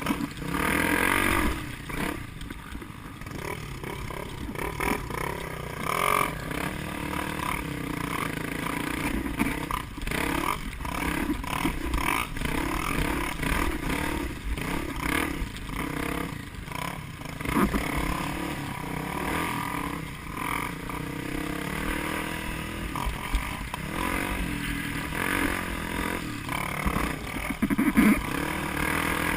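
Motor vehicle engines running, rising and falling in loudness, mixed with noise.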